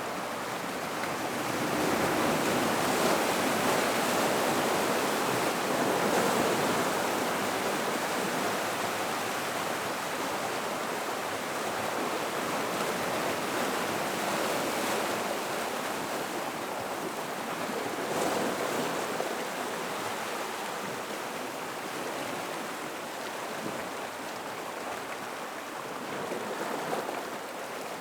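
Gentle ocean waves washing into a rock pool, a steady wash of water that swells a few seconds in and again after about eighteen seconds.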